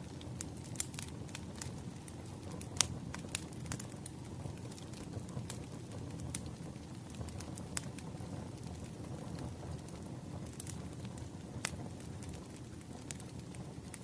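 Wood fire crackling: a steady low rumble of flames with sharp, irregular pops and snaps, one louder pop a little under three seconds in.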